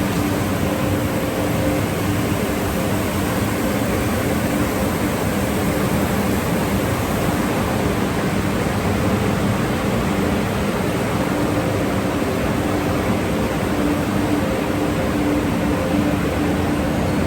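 Automatic car wash tunnel equipment running: a steady rushing noise with a low hum underneath.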